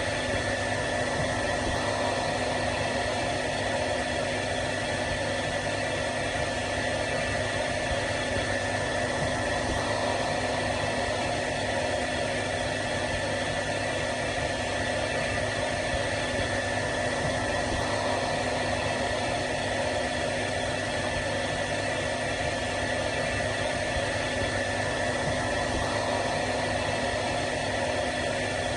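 Hair dryer running steadily: an even fan hiss with a constant motor hum and whine.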